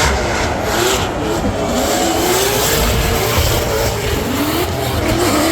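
Drift car engine running hard on the track, its revs rising and falling again and again, over a steady wash of track noise.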